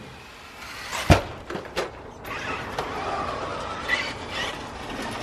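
Radio-controlled car jumping: a sharp thud about a second in, the loudest sound, then a couple of lighter knocks, with brief rising whines from the electric motor later on.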